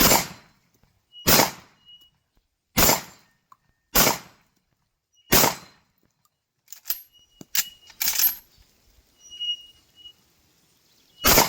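Single gunshots fired at an unhurried pace on a shooting course, about seven in all: five roughly a second and a half apart, then a pause with a few softer clicks, one more shot just after 8 s in, and a last shot near the end.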